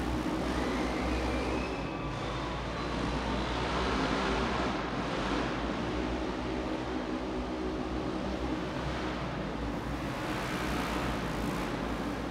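Engines of vehicles racing on a speedway track: a continuous dense drone, with a few faint rising revs in the first few seconds.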